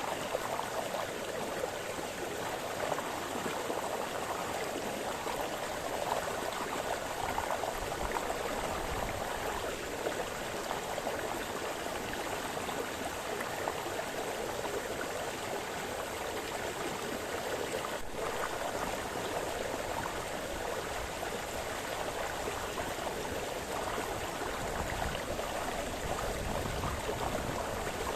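Small brook splashing and burbling over stones, a steady, continuous rush of flowing water.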